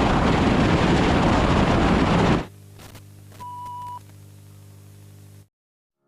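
Heavy wind rushing over the microphone, which cuts off abruptly about two and a half seconds in. A quiet steady low hum follows, with one short high beep in the middle, before the sound drops out entirely.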